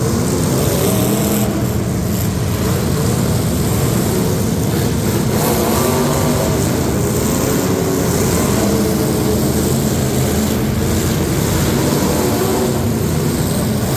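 Truck engines running loudly and steadily at a competition heat.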